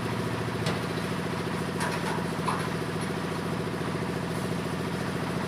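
Engine-driven corn sheller running steadily, with its engine drone and a few short sharp knocks in the first half.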